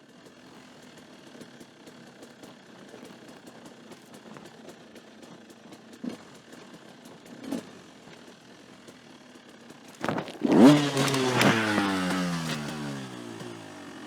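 Dirt bike engine running under riding, with a light clatter. About ten seconds in there is a sudden loud knock and the engine revs hard, then its pitch falls away over a couple of seconds.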